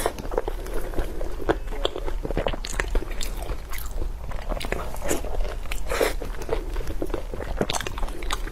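Close-up eating sounds: a person biting and chewing food, with many short, sharp mouth clicks and smacks coming irregularly, several a second.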